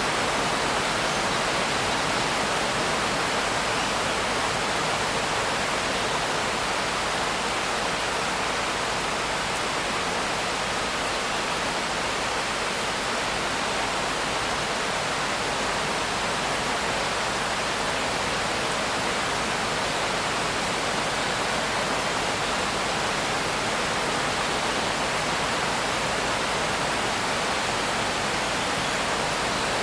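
Steady heavy rain, an even, unbroken hiss with no single drops standing out.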